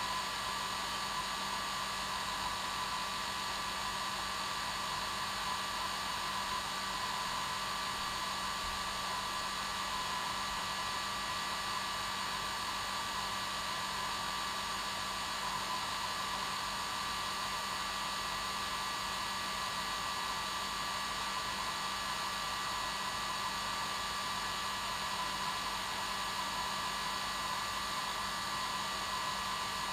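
Hair dryer running steadily on its normal setting: an even airy rush with a steady motor whine and hum, unchanging throughout.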